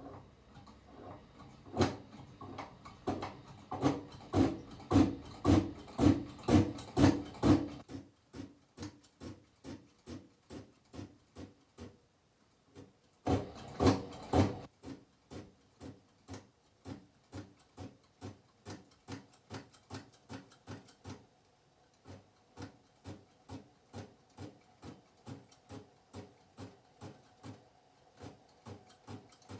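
Hand pump of an Optimus 550/500CP kerosene pressure lamp being worked, about two strokes a second, building tank pressure after the lamp has lit. The strokes are strongest in the first several seconds, pause briefly, then go on lighter. A short rush of noise comes about halfway through.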